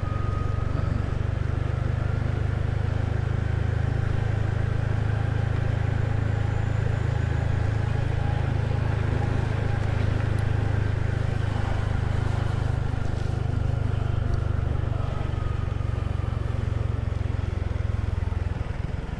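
Small motor scooter running steadily at low speed, its engine hum mixed with wind and road noise, easing a little near the end.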